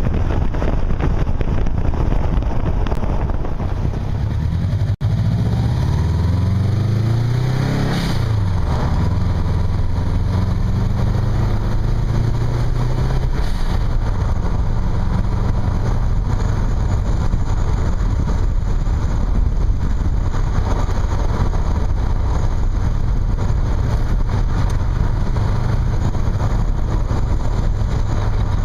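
Heavy wind rumble buffeting the microphone, mixed with a motor vehicle's engine. The engine's pitch climbs and shifts from about four to nine seconds in, with a brief dropout about five seconds in.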